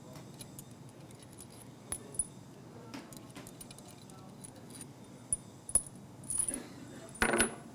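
Scattered light clicks and metallic clinks, like small metal objects being handled, with two short, louder clattering bursts near the end.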